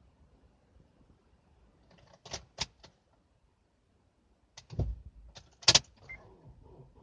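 Sharp metallic clicks from keys and the ignition switch of a 2005 Honda Element that won't start: three quick clicks about two seconds in, then another cluster with a dull thump around five seconds and a loud click near six. No engine cranks or runs.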